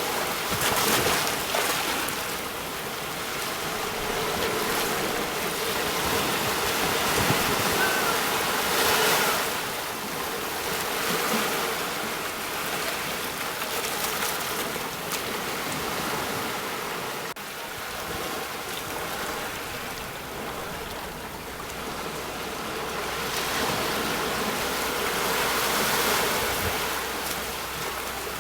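Sea waves breaking on a shore: a steady wash of surf that swells and ebbs as each wave comes in, with louder surges a few seconds apart.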